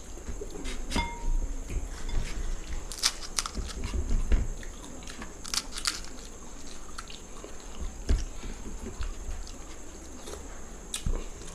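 Crisp fuchka (pani puri) shells cracking and being chewed with a full mouth: scattered sharp crunches and wet chewing, with a few louder crunches about three seconds and six seconds in.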